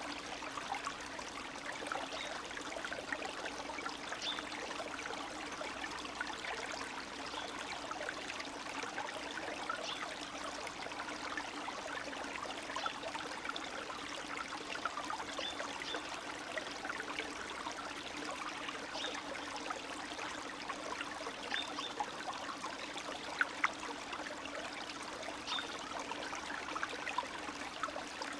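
Spring meltwater stream trickling and babbling steadily, with many small splashes and drips over it.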